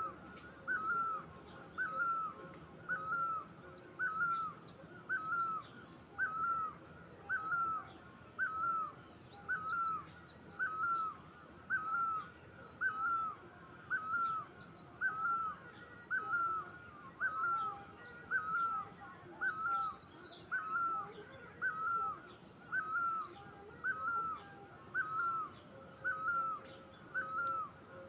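Birdsong: one bird repeats a short, hooked call at a steady pace a little more than once a second, while other birds add bursts of higher, quicker chirps.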